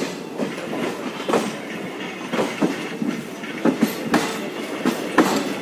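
Passenger express train running, its wheels clattering with uneven knocks over rail joints and points.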